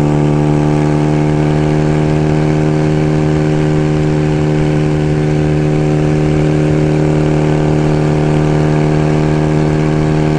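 1975 Kawasaki KZ400S's parallel-twin engine running at a steady speed while riding, with wind rumbling on the microphone.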